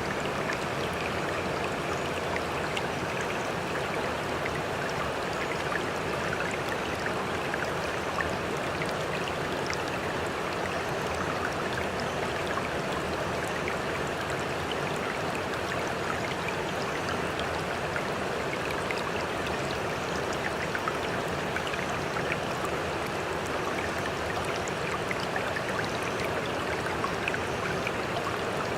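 Sea water running steadily, an even rush with small trickling splashes throughout.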